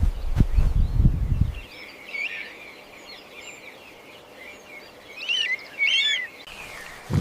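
A few low thuds in the first second and a half, then a bird chirping in short, high, rising and falling notes, busiest and loudest about five to six seconds in.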